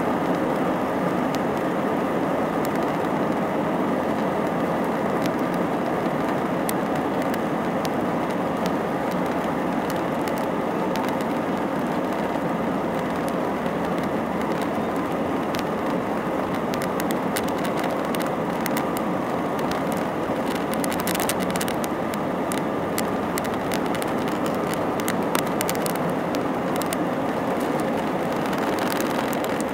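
Steady jet engine and airflow noise heard inside the cabin of an Airbus A319-131 with IAE V2500 engines, an even rush with a few faint steady tones in it. Small light ticks and rattles come through it in the middle.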